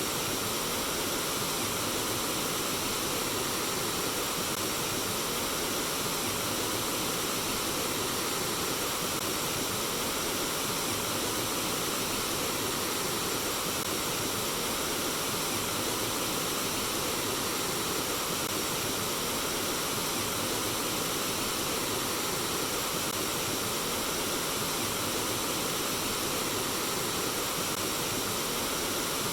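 Flowing water, a steady, even rush of running water that does not change.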